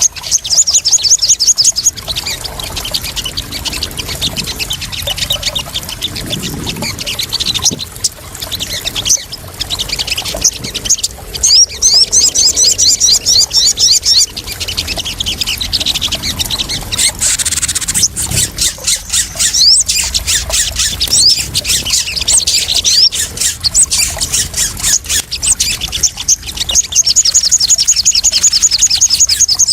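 Crimson sunbird (sogon) calls: fast trills of high, sharp notes in bouts of one to three seconds, over splashing water.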